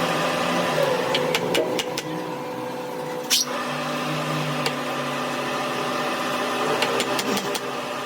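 A machine motor running steadily with a constant hum, with scattered sharp clicks and one louder knock about three and a half seconds in.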